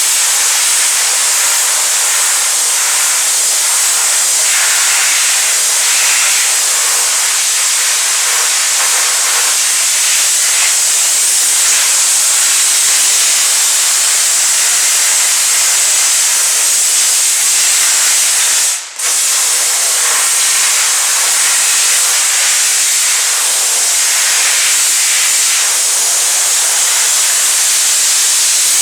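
Steam cleaner jetting a continuous hiss of steam while degreasing a truck. The hiss cuts out for a moment about two-thirds of the way through, then resumes.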